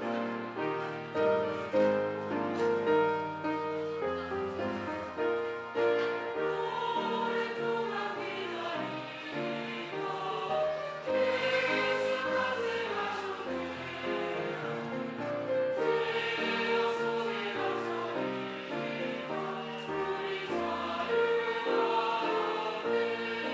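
A choir singing a slow hymn-like piece, with piano accompaniment.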